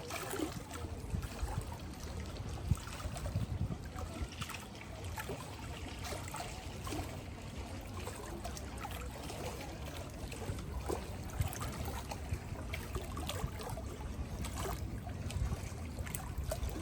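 Lake water lapping and trickling, with many small splashes and a low steady rumble underneath.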